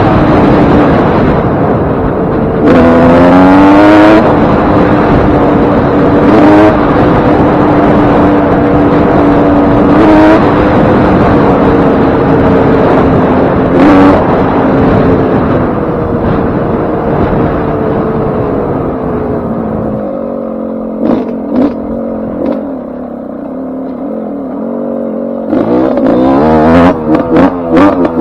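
Suzuki RM125's single-cylinder two-stroke engine under way on a freshly rebuilt top end. It revs up, holds a steady pitch, then drops back, and is blipped in a quick run of sharp revs near the end.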